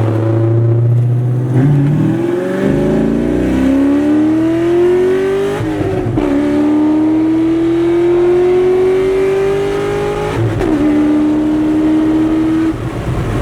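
Dodge Hellcat's supercharged V8 under full-throttle acceleration in a manual car, heard from inside the cabin. The engine note holds briefly, then climbs steadily in pitch. It drops sharply at a gear change about six seconds in, climbs again, and drops at a second shift around ten seconds. It runs on a little longer before falling away near the end as the throttle is lifted.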